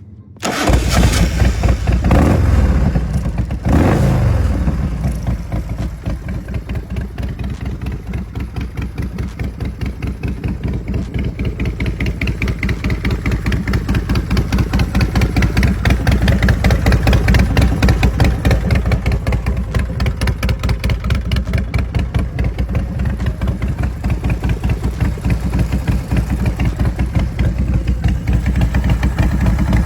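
Sands 96 cubic-inch V-twin motorcycle engine starting about half a second in. It is revved twice, then settles into a steady pulsing idle.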